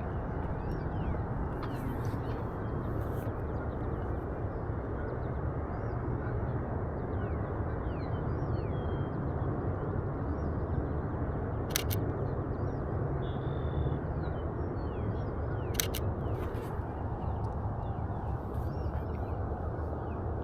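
Canon EOS RP camera shutter clicking twice, about four seconds apart, over a steady low outdoor rush, with faint bird chirps throughout.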